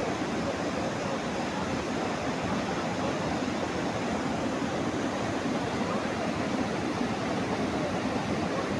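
Steady rushing of fast-flowing water, like a rain-swollen river or torrent, holding level throughout.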